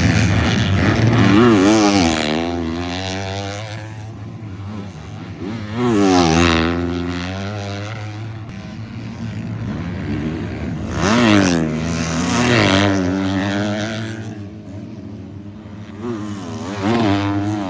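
250-class motocross bikes racing past one after another, each engine rising in pitch as it approaches and sweeping down as it goes by, about four passes, over the steady drone of other bikes on the track.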